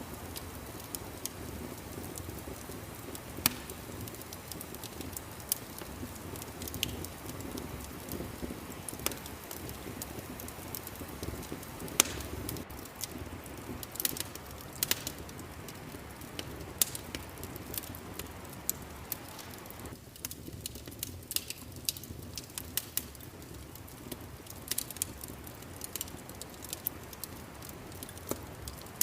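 Wood fire crackling in a fireplace: irregular sharp pops and snaps over a low, steady rumble of burning. The loudest snaps come about three and a half seconds in and about twelve seconds in.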